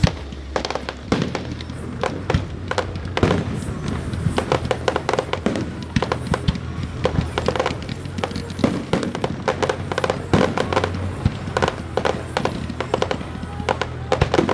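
Fireworks display: a continuous run of sharp bangs and crackling aerial bursts, many in quick succession, with music playing underneath.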